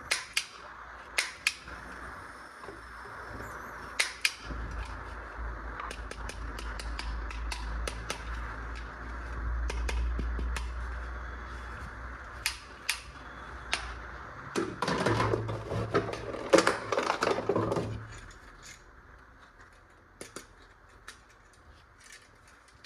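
Plastic toy parts being handled: a scattered series of sharp clicks and snaps, with a louder stretch of rustling and rattling past the middle.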